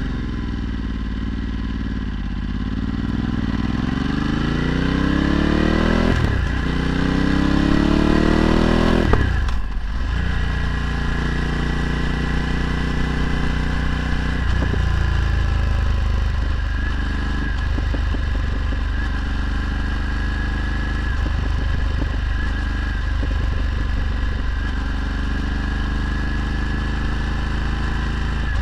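Ducati Multistrada 1260's 1262 cc V-twin through a Termignoni exhaust, pulling hard through the gears. The revs climb, drop at a shift about six seconds in, climb again and fall away sharply near ten seconds in. The bike then runs on at steadier revs, with one more step down about halfway through.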